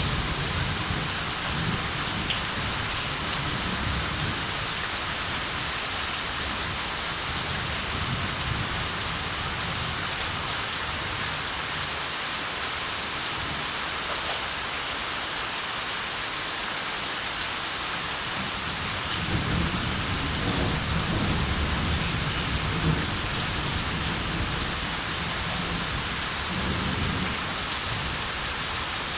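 Steady rain falling, with distant thunder rumbling low in the first few seconds and again about two-thirds of the way through.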